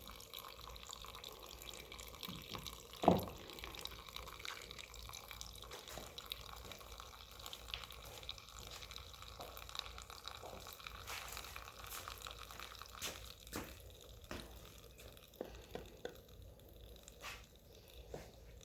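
Old gasoline trickling and dripping from the disconnected fuel line of a Honda trash pump's tank into a cup. A single louder knock about three seconds in.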